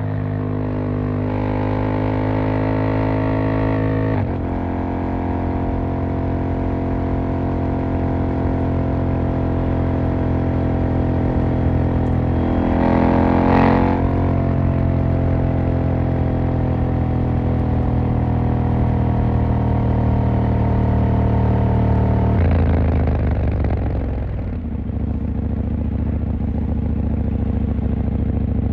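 KTM 890 Duke R's parallel-twin engine pulling through the gears, its pitch rising, with a shift about four seconds in and a brief loud rushing noise around thirteen seconds in. About 22 seconds in the engine note falls as the bike slows, then holds a steadier, lower note.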